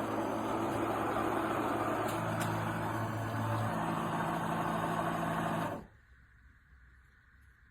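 De'Longhi TrueBrew coffee maker running with a steady motorized hum, its pitch stepping up about two seconds in, then shutting off abruptly near the end.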